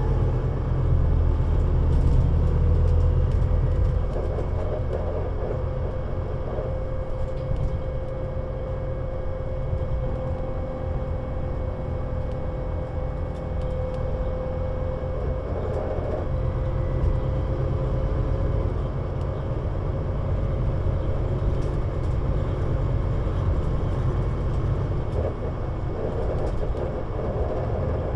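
Scania Citywide LFA articulated bus running, with a low engine and drivetrain rumble. The sound is louder for the first four seconds, then drops to a steadier run with a thin whine that drifts slightly in pitch.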